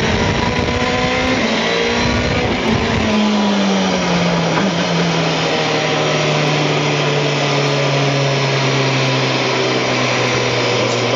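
Rally car engine heard from inside the cabin, its pitch falling over the first few seconds and then holding a steady drone, with road and tyre noise under it.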